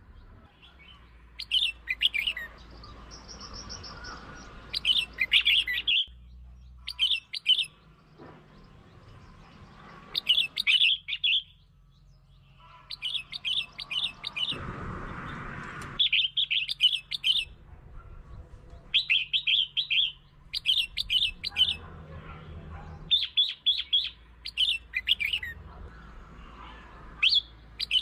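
Red-whiskered bulbul singing short, bright, chirpy phrases, repeated every second or two with brief gaps. This is the kind of bulbul song used to provoke and lure other bulbuls.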